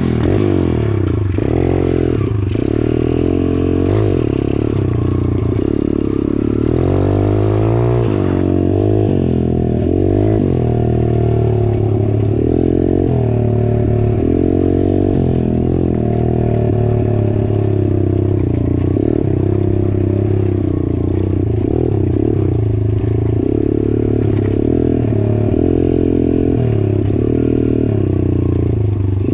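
A 150cc dirt bike engine runs while riding, its pitch rising and falling again and again as the throttle is opened and closed.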